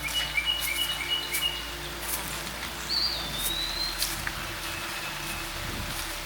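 Woodland birds singing: short repeated whistled notes in the first two seconds, then a longer falling whistle about three seconds in. Raindrops tick now and then over a steady hiss of light rain.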